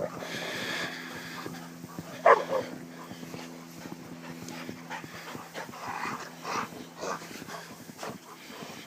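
Dogs playing in deep snow: one loud sharp bark or yelp about two seconds in, then several shorter yips and whines, over a faint steady low hum.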